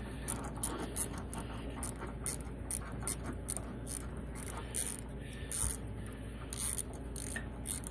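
Irregular small metallic clicks and scrapes of hand tools taking the spark plug out of a snowblower engine, several a second, over a low steady hum.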